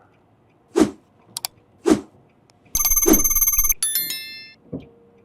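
A phone ringtone ringing in a rapidly pulsing burst about a second long past the middle, followed by a brief fading chime.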